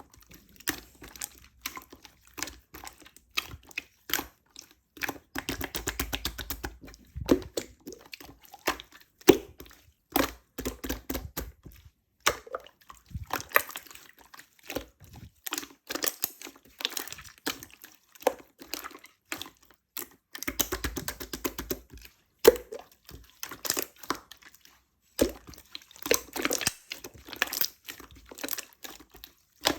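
Opaque slime being squished, pressed and stretched by hand, making dense runs of wet clicks, pops and crackles with short pauses between handfuls.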